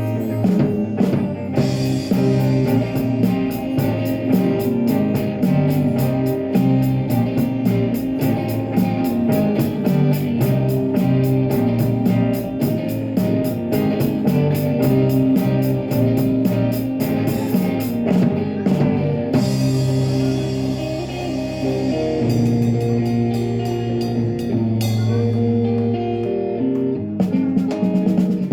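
Live rock band playing an instrumental passage on guitar, bass and drum kit, with a busy cymbal beat that thins out about two-thirds of the way through.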